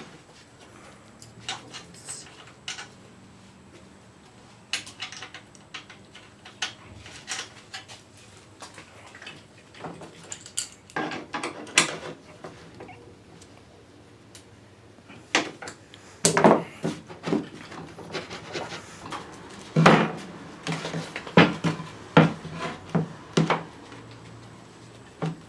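Irregular knocks and clatters of wooden pieces and tools being handled and set down. They come sparsely at first, then in louder, denser clusters in the second half.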